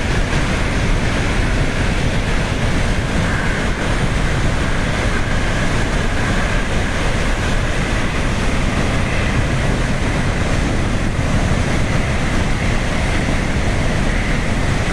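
Steady, loud rush of fast-flowing floodwater, a continuous roar of water with no breaks.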